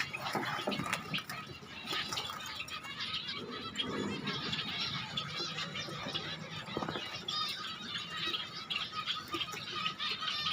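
Zebra finches calling: a busy, continuous run of short, overlapping chirps and squeaks.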